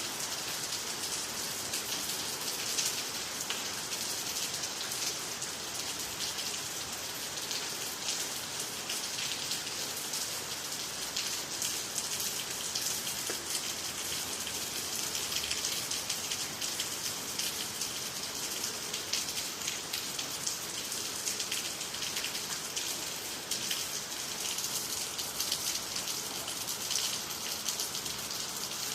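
Steady rain falling, a dense even patter of drops on the ground, water and nearby trees, with no thunder.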